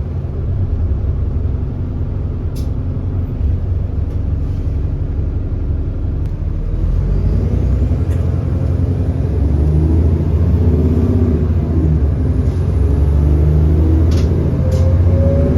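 Alexander Dennis Enviro400 bus's 6.7-litre Cummins ISB diesel engine running under way, its pitch rising and growing louder about halfway through as the bus accelerates, then holding steady. The bus has an exhaust leak. A few sharp clicks come through early on and again near the end.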